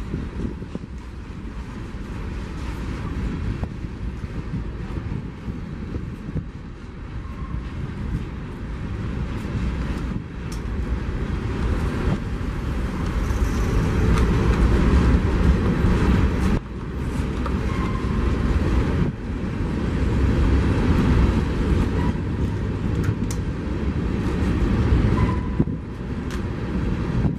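Train rolling past: a continuous rumble and rattle of wheels on rail that grows louder towards the middle, with scattered clicks and a few brief squeals.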